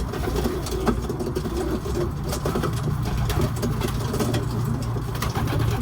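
White homing pigeons cooing, a low warbling murmur, over a steady low hum, with a few light clicks.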